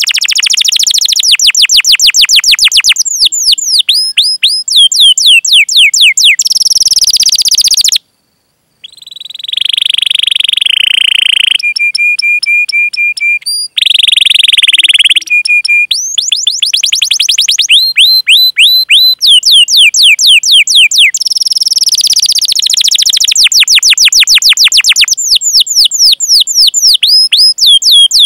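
Domestic canary singing loudly in long rolls of rapid, downward-sweeping cheeping notes, about ten a second. It breaks off for a moment about eight seconds in, then carries on with held whistled notes and a quick run of short repeated notes before the rolls resume.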